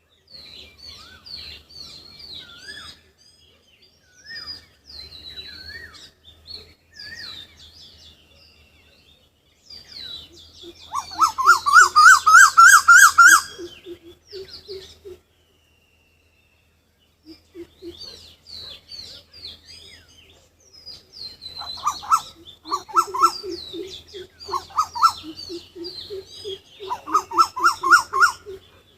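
Wild birds calling: high chirps and short rising whistles throughout, joined by a loud, fast series of repeated rising notes a third of the way in and again in shorter runs near the end. The sound drops out completely for a moment about halfway.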